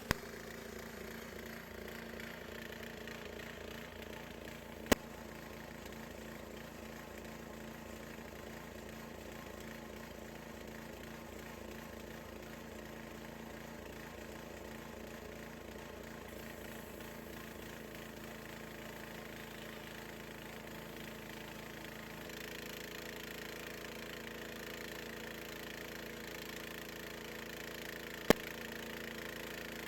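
Gasoline engine of a Harbor Freight bandsaw sawmill running steadily, its tone shifting slightly about two-thirds of the way through. Three sharp clicks stand out: one at the start, one about five seconds in, and one near the end.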